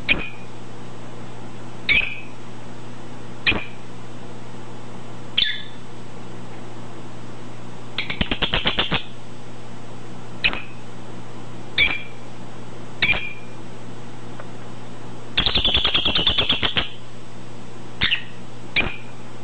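Pet parrot giving short, sharp beep-like calls every couple of seconds, with two bursts of rapid clicking chatter of about ten pulses a second, about eight seconds in and again near the end. A steady low hum runs underneath.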